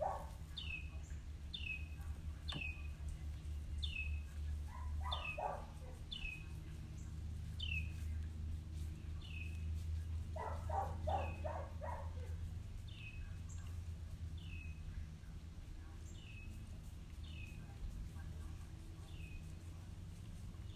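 A bird calling over and over, a short downward-slurred chirp about once a second, over a steady low rumble. Twice there is a brief bout of lower, rapid chattering.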